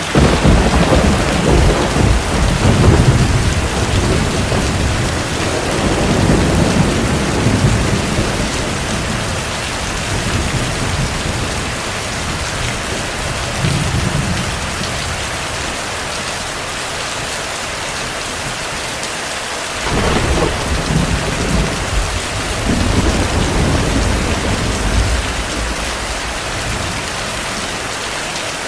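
Heavy, steady rain with rolling thunder. One deep rumble runs through the first several seconds, and another starts abruptly about two-thirds of the way in and rolls on for a few seconds.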